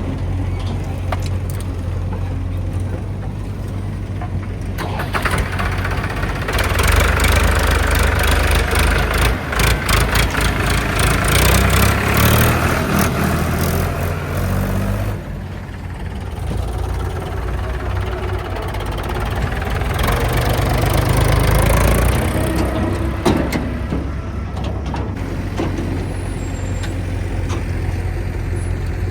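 Heavy diesel engine of working machinery running steadily, revving up hard twice for several seconds under load, with clattering and rattling during the first, longer rev.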